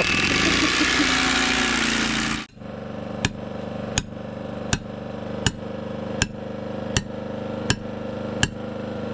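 Hammer drill boring the last rebar hole in concrete, a loud steady noise that cuts off about two and a half seconds in. A steady hum follows, with a sharp click about every three quarters of a second.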